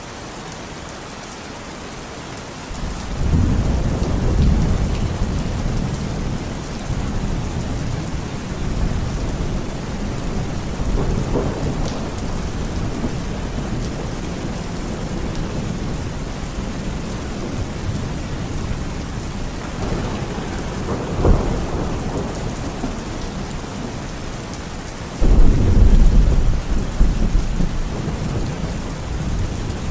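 Steady rain falling, with deep rolling thunder: one rumble builds about three seconds in, and a louder one breaks in suddenly near the end.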